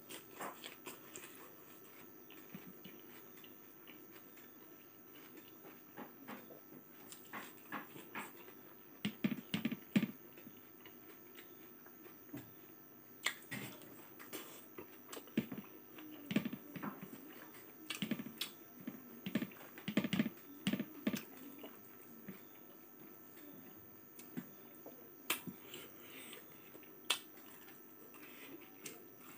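Close-up eating sounds of a man chewing a mouthful of food: irregular wet lip smacks and mouth clicks. They come in louder spells about a third of the way in and again just past the middle.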